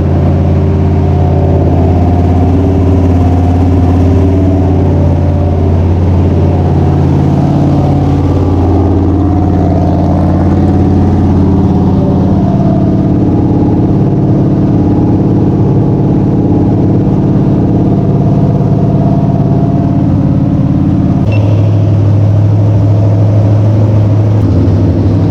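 Freshly installed small-block Mopar 318 V8 in a dirt-track race car running loudly during its first run-in. Its speed shifts about seven seconds in and drops to a lower, steadier note near the end.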